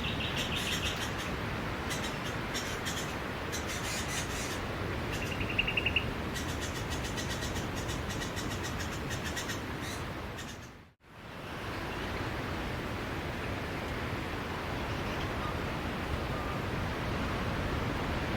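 Steady rush of sea waves on a beach, with a few short bird chirps and one quick trilled call in the first half. The whole sound fades out to silence about eleven seconds in and fades straight back in.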